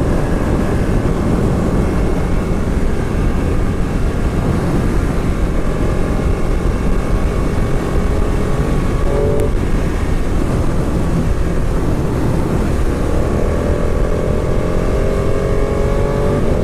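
Motorcycle riding at road speed: the engine runs under heavy wind rush on the camera microphone, and its note climbs slowly near the end.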